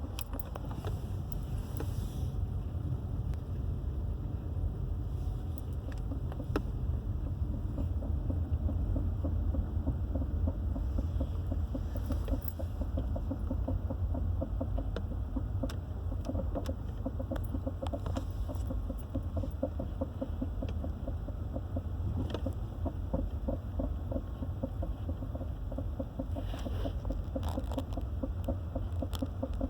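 A vehicle driving, heard from inside as a steady low rumble, with a rapid rhythmic knocking or ticking repeating throughout.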